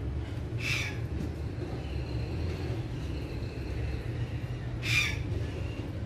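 Two short, harsh bird calls, one a little under a second in and one about five seconds in, over a steady low rumble.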